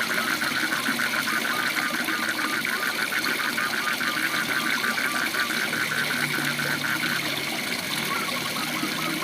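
Waterfall rushing steadily under frogs calling in a fast, even pulsed trill of about seven or eight pulses a second, which breaks off about seven seconds in and starts again near the end.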